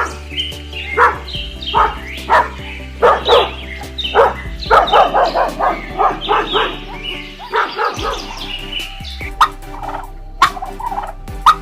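Short animal calls repeated many times in quick succession, over background music.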